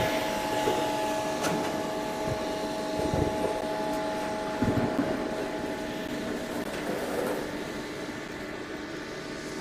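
Diesel engine drone of a river towboat moving a barge, a steady hum with several held tones that slowly fades.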